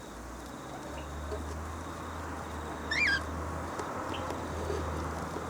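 A single short bird chirp, quickly rising and falling in pitch, about three seconds in, over a steady low hum and hiss.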